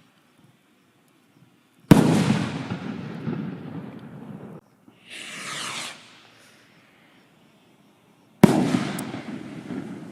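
Firework rockets with 3-inch shell heads. One bursts with a sharp bang about two seconds in, followed by a tail that fades over a couple of seconds. A rocket launch whoosh comes around five seconds, and a second shell bursts with a sharp bang near the end, again with a fading tail.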